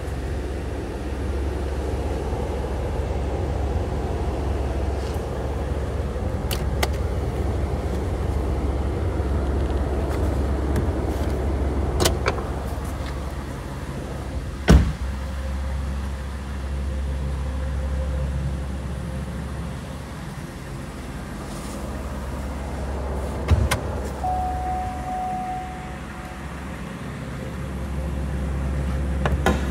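Steady low hum of the Cadillac DTS's Northstar 4.6 L V8 idling, with a single sharp knock about halfway through and a few lighter clicks later on.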